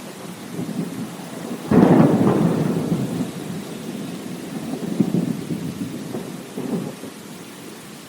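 Steady rain with a thunderclap breaking sharply about two seconds in, then rolling rumbles that fade away over the next several seconds.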